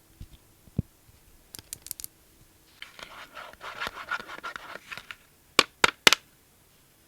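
A few light clicks, then about two seconds of scratching and rubbing, then three sharp clicks close together near the end.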